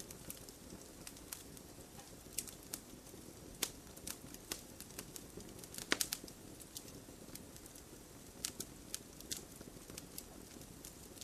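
Wood fire burning, with irregular sharp crackles and pops over a soft steady hiss, a quick cluster of louder pops about six seconds in.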